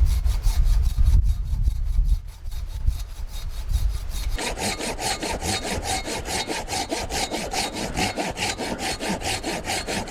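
Hand saw cutting through wood. About four seconds in it settles into a fast, even rhythm of rasping strokes.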